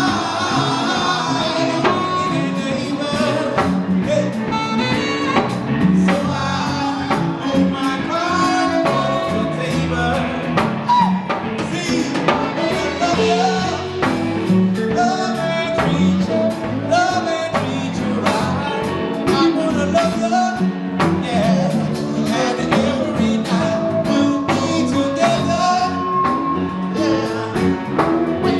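A song with a singing voice over a band with drums.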